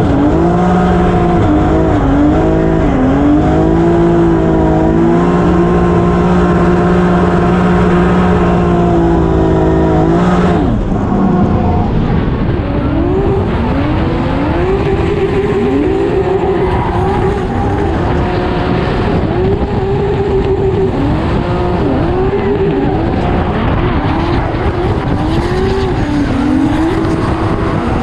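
BMW E92 M3 drift car's engine held at high, steady revs, heard from inside the cabin. After a cut about ten seconds in, it revs up and down over and over through a tandem drift, with tyre noise underneath.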